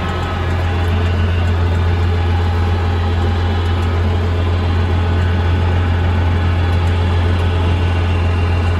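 International 860 diesel tractor engine running steadily, with a strong low hum that grows a little louder about a second in.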